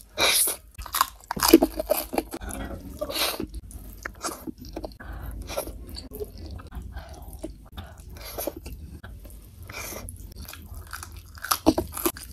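Close-miked chewing and wet mouth sounds of a person eating rice and soy-braised boneless chicken feet by hand, in irregular bites, loudest in the first two seconds.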